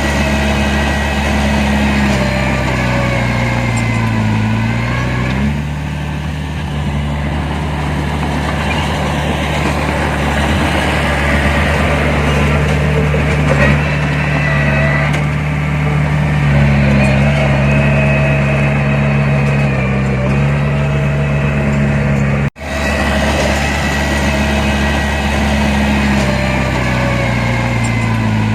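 Heavy diesel earthmoving machinery engine running steadily under load. Its pitch drops and rises again a few seconds in and once more near the end. There is a brief cut in the sound about two-thirds of the way through.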